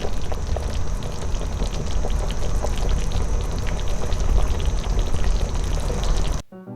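Water at a rolling boil in a pot, a dense bubbling with many small pops. It cuts off suddenly near the end, when piano music starts.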